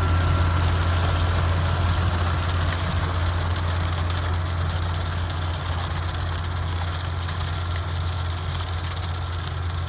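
Tractor engine running steadily, driving a Meyer V-Max manure spreader as it throws manure: a strong low hum under an even rushing noise that gradually gets a little quieter.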